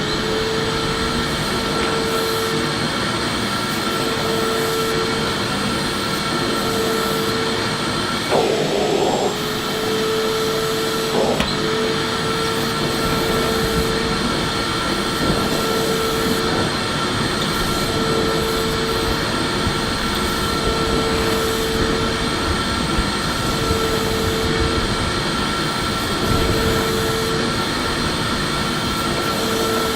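Electric vacuum cleaner running steadily, a continuous whooshing motor noise with a hum that swells and fades every few seconds.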